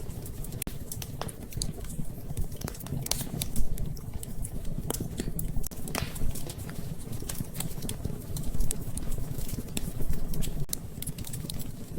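Wood fire crackling in a fireplace: irregular sharp pops and crackles over a steady low rumble, with one louder pop a few seconds in.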